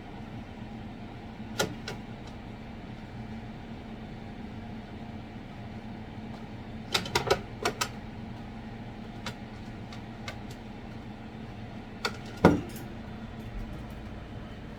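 Pet starlings tapping and knocking: a few sharp taps, a quick cluster of them about halfway through, and one louder knock near the end, over a steady low hum.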